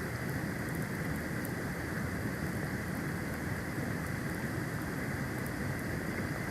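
Steady hiss of a snowstorm on an outdoor nest-cam microphone: wind and falling snow, with a few faint ticks.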